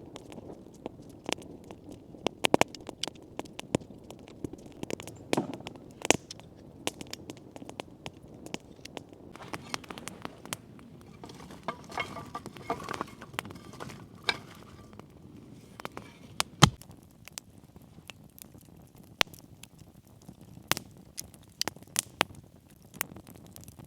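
Wood campfire crackling, with irregular sharp pops scattered through it.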